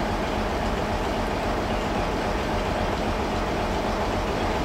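Steady rumble of a locomotive-hauled passenger train approaching slowly, led by its driving van trailer.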